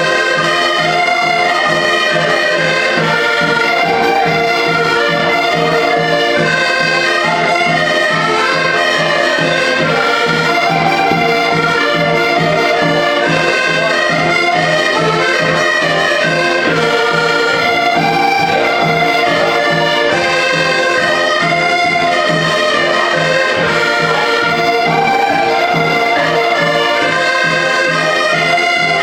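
Live band music: a sustained melody from accordion and brass over a steady, regular beat.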